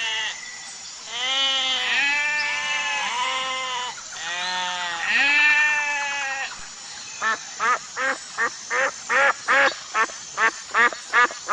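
Bleating livestock: several long, wavering bleats, then a quick run of about a dozen short bleats near the end.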